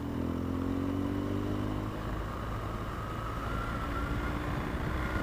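BMW adventure motorcycle engine running at road speed, its pitch rising slightly as it accelerates over the first couple of seconds and then holding steady, with wind whistling past the helmet.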